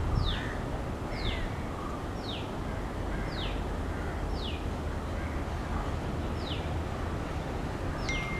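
A bird calling with a short falling whistle, repeated about once a second, over a low steady rumble. A thin steady tone starts near the end.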